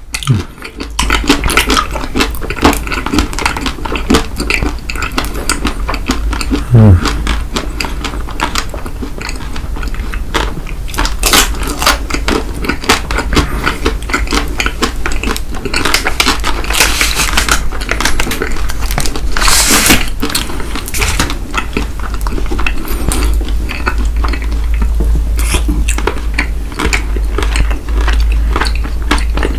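Close-miked chewing of chocolate candy bars: a dense run of small wet mouth clicks and smacks as two people eat.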